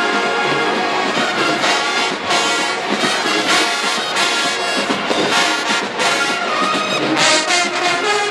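Marching band brass section playing loudly, trombones and trumpets in full sustained chords.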